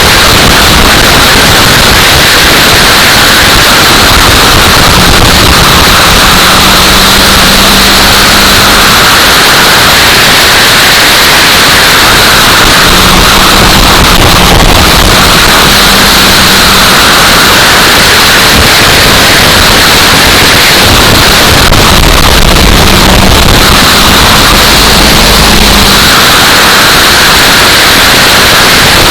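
Loud, constant wind noise on the microphone, clipping the recording and drowning everything else out. Race-car engines come through only faintly underneath, fading in and out.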